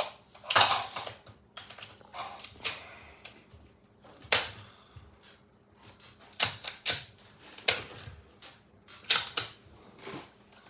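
An irregular series of sharp cracks and clicks at a rifle firing line: a few loud cracks with a short ringing tail, among lighter clicks and knocks.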